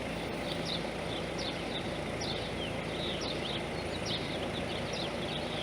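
Birds chirping over and over in short, quick, high chirps, several a second, over a steady low background hum and rush.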